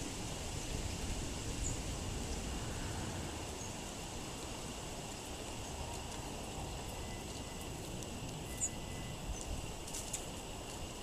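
Gusty wind rumbling on the microphone, with a few faint, short, high songbird chirps scattered through.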